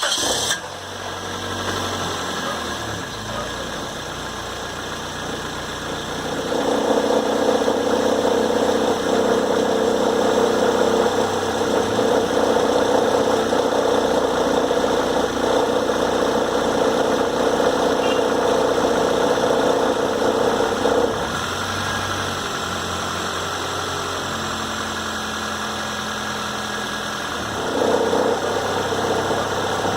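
2006 Toyota Corolla engine running just after a cold start, with a loud steady hum that comes in about six seconds in, cuts out suddenly about twenty seconds later and returns near the end. This is the noise the owner gets only when the cold car is put into Drive, 1, 2 or Reverse, never in Park or Neutral, and which goes away once the car has run about two minutes.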